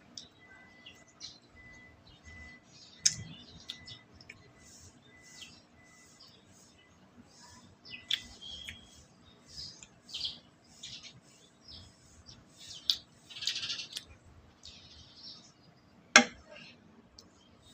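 Close-up eating sounds: chewing with wet mouth clicks and smacks, and a sharp knock about 16 seconds in, as of a utensil or dish being set down. A faint high beep repeats about twice a second through the first half.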